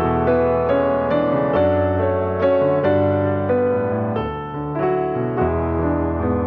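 Slow piano music: notes struck one after another over held low notes.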